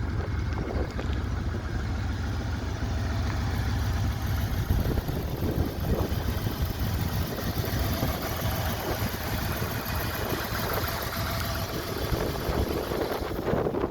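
Ford Ranger pickup truck engine running steadily at idle.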